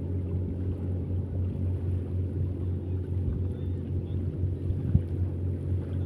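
An engine running steadily, a low even hum, with a single sharp knock about five seconds in.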